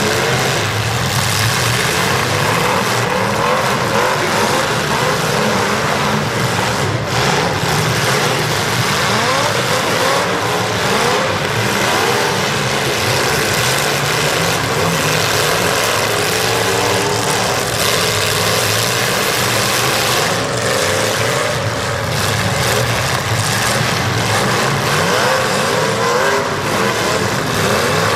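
Several demolition derby cars' engines running and revving at once, their pitches rising and falling, loud and continuous.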